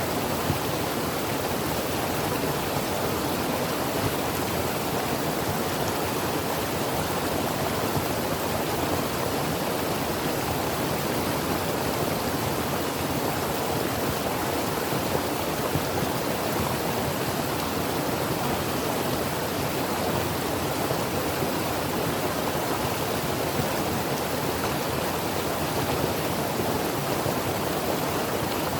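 Creek water flowing over rocks: a steady, even rushing with no breaks.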